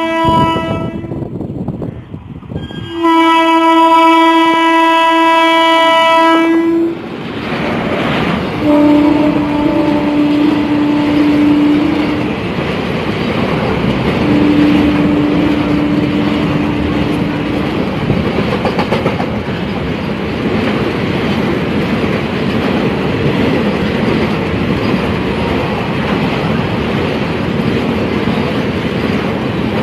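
WAG7 electric locomotive's horn sounding as the container train approaches: a short blast at the start, then a long loud blast from about three to seven seconds, then two lower-pitched blasts once the locomotive has passed. Container wagons then rumble and clatter steadily past at speed.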